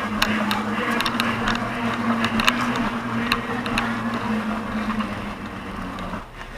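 An engine running steadily at one pitch, falling away about six seconds in, with scattered sharp clicks and knocks over it.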